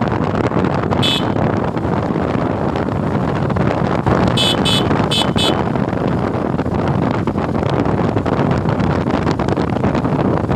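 Wind rushing over the microphone on a moving motorcycle, with road and engine noise underneath. A vehicle horn gives one short beep about a second in, then four quick beeps in the middle.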